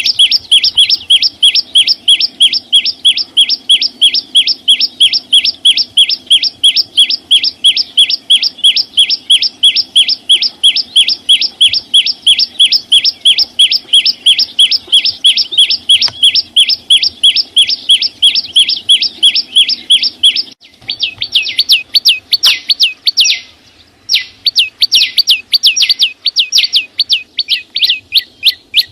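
Small songbird (chim sâu xanh) calling in a fast, very regular series of short, sharp notes, about four a second. The pattern breaks off about two-thirds of the way in and starts again slightly faster and more uneven, with a short pause soon after.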